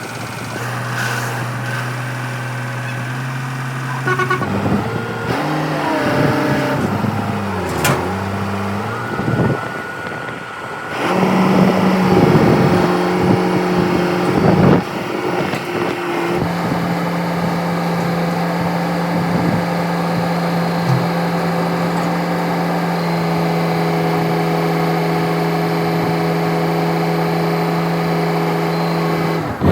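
Dump truck engine running, its speed changing a few times before it settles into a steady, higher pitch for the latter half.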